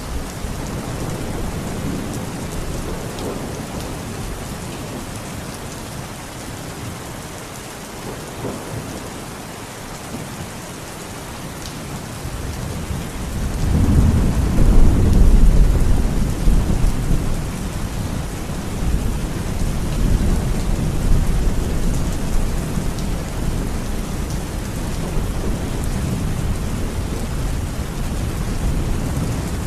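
Steady rain falling, with thunder. A long, deep rumble of thunder builds about halfway through and keeps rolling, at a lower level, until the end.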